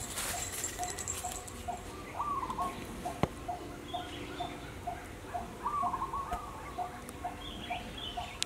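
Outdoor birdsong: one bird repeats a short low note evenly about twice a second, while others give brief chirping phrases a few times. A single sharp tap comes about three seconds in.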